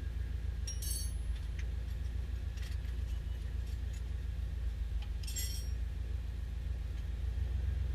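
Three light metallic clinks with a short ringing tone, spread over several seconds, over a steady low hum.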